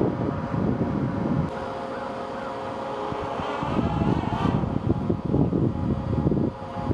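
Rumble and crackle of a distant Antares rocket launch, swelling and fading unevenly, with a dip in the middle, mixed with wind on the microphone.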